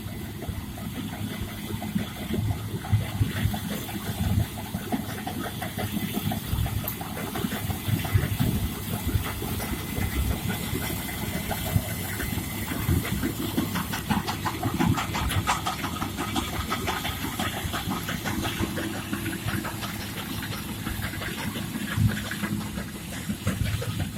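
Farm machinery engine running steadily, with a clattering rattle for a few seconds around the middle.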